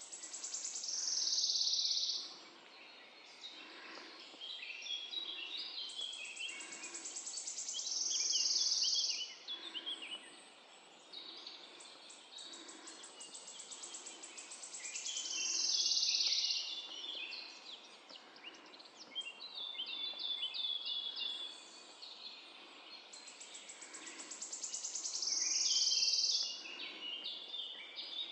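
Songbirds singing in a forest at morning: one bird repeats a high song about every eight seconds, four times, each a fast trill ending in a louder flourish, while other birds chirp between its songs over a faint steady background hiss.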